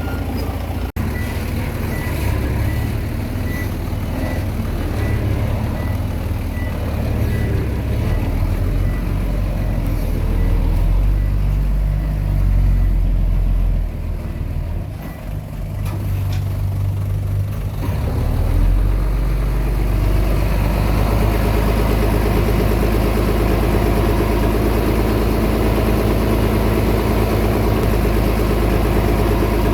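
Komatsu D20P bulldozer's diesel engine working under changing load as it pushes soil, its note shifting up and down through the middle. About two-thirds of the way in it settles into a steady, even run. Faint regular ticks sound over the engine early on.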